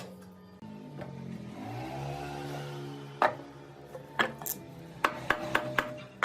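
An electric motor hum that rises in pitch and levels off as the machine spins up. It is followed by sharp knocks and clicks of tools or wood, a single one about three seconds in and a quick run of them near the end.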